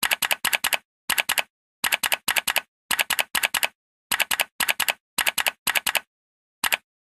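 Typewriter typing sound effect: short runs of quick keystrokes, about a dozen in all, with dead silence between them.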